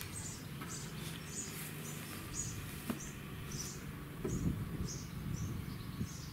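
A small bird chirping repeatedly, two or three short high chirps a second, over a low steady hum.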